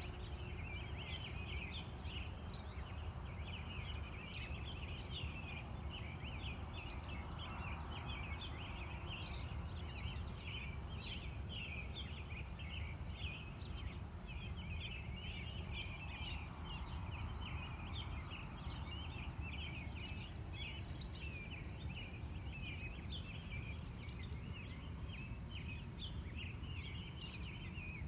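A dense pre-dawn chorus of many short bird chirps over a steady, high, pulsing insect trill, with a low background rumble. One higher call cuts in briefly about a third of the way through.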